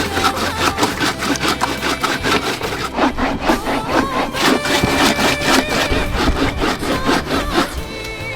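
Fast, rhythmic rasping strokes, about four to five a second, like a hard material being scraped or sawn, stopping shortly before the end; faint background music underneath.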